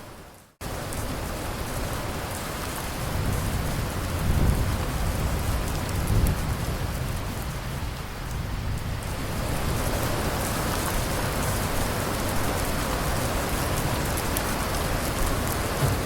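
Steady heavy rain, with a low rumble of thunder a few seconds in. The sound drops out for a moment right at the start, then comes back louder.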